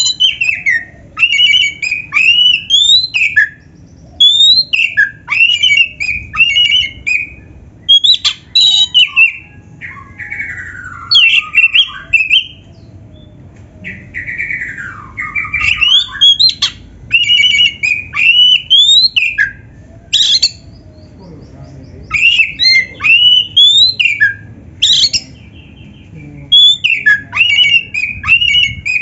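Oriental magpie-robin (black-breasted kacer) singing loud, varied phrases of whistles, trills and rising and falling notes, mixed with canary-style fill-in phrases. The phrases come in bursts of a second or two with short pauses, over a faint steady low hum.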